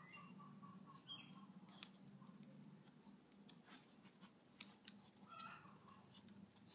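Very quiet outdoor background: faint bird calls, a few soft ticks and a low steady hum.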